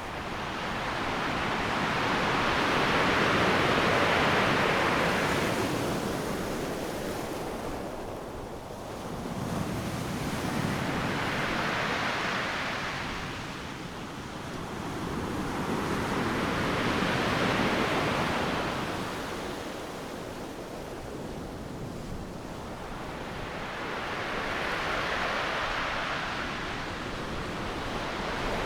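Ocean surf breaking on a beach: a steady wash of noise that swells and subsides as each wave comes in, about four surges in half a minute.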